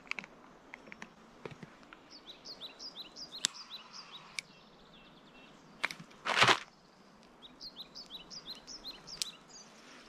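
A songbird singing two quick phrases of short, high, falling chirps, one about two seconds in and one near the end. Between them come scattered clicks and one brief loud crunch about six seconds in.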